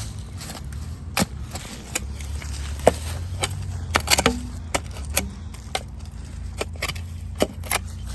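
Shovel digging into dirt around a buried engine block: irregular sharp scrapes and clinks of the blade, several a second, over a steady low rumble.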